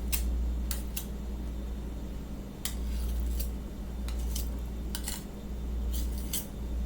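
A spoon scraping food off a dish: about ten short, irregular scrapes and clinks over a steady low hum.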